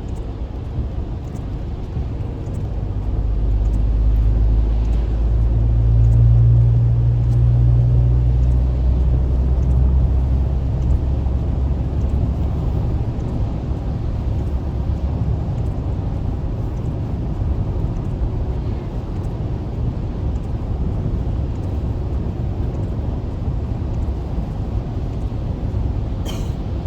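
Road and engine noise of a car driving on a highway, heard from inside: a steady low rumble that swells with a deep engine drone from about three seconds in, then eases back to an even road roar after about eleven seconds.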